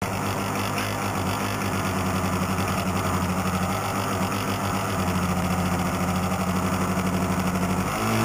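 Boat motor running steadily with a low, evenly pulsing hum over water noise, rising slightly in pitch near the end.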